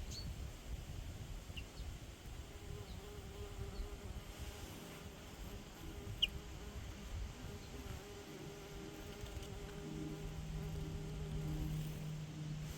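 A flying insect buzzing close by, a steady drone that shifts lower and grows louder near the end.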